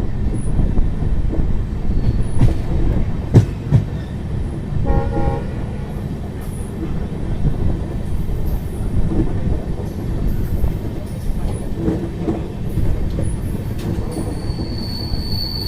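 Passenger train running, heard from aboard: a steady low rumble of the wheels on the track, with a sharp knock about three seconds in and a brief pitched tone about five seconds in. A high, thin wheel squeal sets in near the end.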